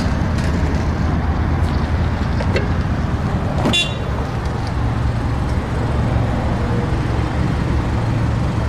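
Steady low rumble of motor vehicle noise, with a few sharp clicks, the loudest about four seconds in.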